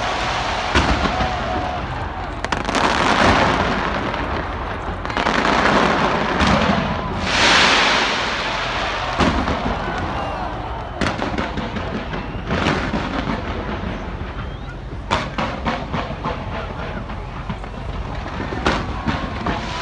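New Year fireworks display: repeated sharp bangs and crackling from bursting shells, with several long rushing swells in between and a quick run of crackles about three-quarters of the way through.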